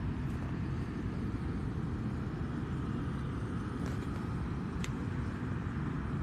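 Steady low outdoor rumble with no clear pitch, with a single faint click about five seconds in.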